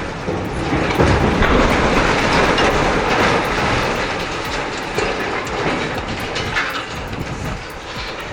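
Heavy vehicle or machinery running, a loud, dense rumbling noise with clatter that swells about a second in.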